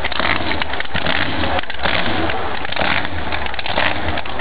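Holden Commodore ute's engine running loudly at the drag strip as a steady, rough rumble.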